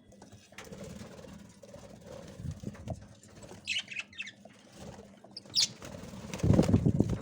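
Budgies moving about and flapping their wings, with a few short high chirps, and a loud flurry of wingbeats near the end.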